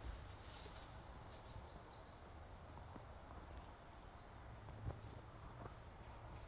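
Quiet outdoor ambience: a steady low rumble, a few faint high chirps, and a single soft click about five seconds in.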